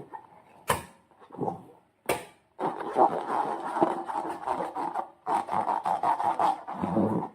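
Slime and a rubber balloon being worked by hand: wet squelching and rubbery rubbing, with two sharp snaps near the start.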